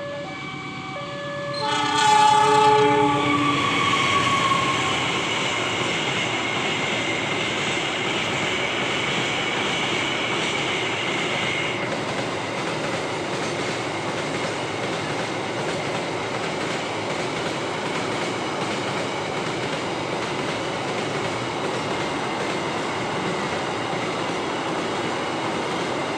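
CC 206 diesel-electric locomotive sounds its horn briefly about two seconds in as it hauls a container freight train past. The steady rolling noise of the wagons follows, with a high thin squeal over it until about twelve seconds in.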